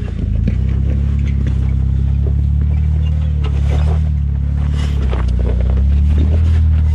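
Jeep engine running steadily at low speed while crawling a rocky off-road trail, with occasional short knocks and rattles over it.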